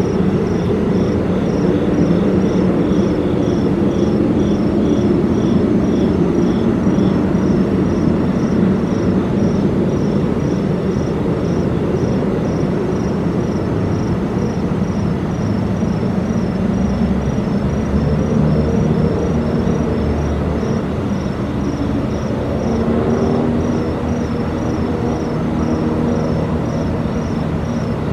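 A loud, steady low drone of unknown origin, carrying several pitches that waver and shift between low hum and mid tones, over a deep rumble. Insects, crickets or katydids, chirp in a regular rhythm high above it.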